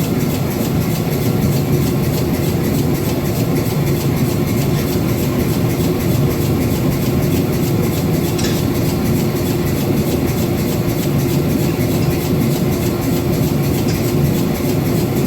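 Pneumatic air hammer (power hammer) pounding hot 5160 steel bar stock in rapid, steady blows over a steady hum.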